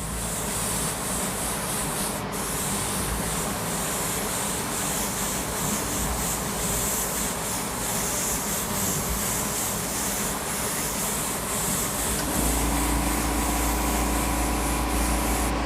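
Airbrush spraying urethane paint over a stencil, a steady hiss. About twelve seconds in, a low steady hum joins it.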